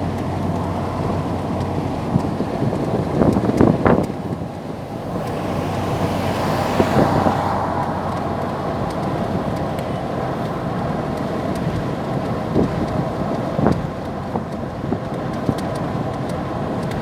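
A car driving along a road, with a steady rumble of road and engine noise. There are a few sharp knocks about three to four seconds in, and a swell of rushing noise partway through.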